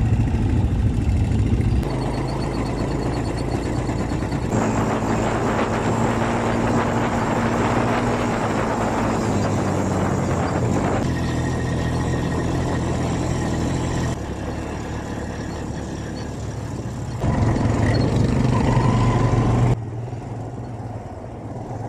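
Quad bike engines running steadily with wind noise, in short segments that change abruptly several times.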